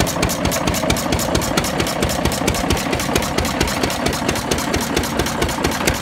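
Hand-cranked engine with a compression release running steadily at idle, with a fast, even firing beat.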